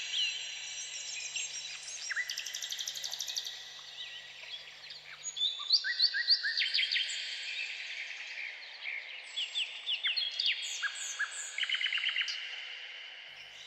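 Several birds singing at once: many overlapping quick chirps, sweeping notes and trills, a dense chorus with no pause.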